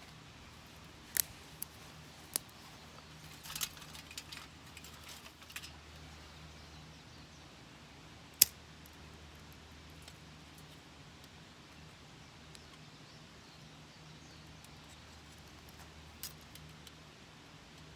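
Scattered sharp clicks and small clinks from handling the small metal FIREBOX nano stove and its fuel while trying to get a fire going, over a steady low hum. A cluster of clicks comes in the first few seconds, a single louder click about eight seconds in, and another near the end.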